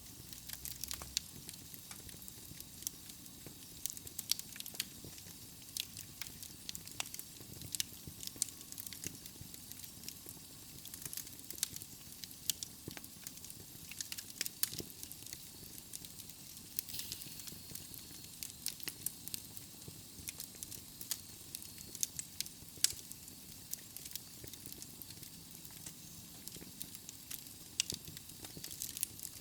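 Wood logs burning in a fireplace: a steady hiss of flames with frequent sharp crackles and pops.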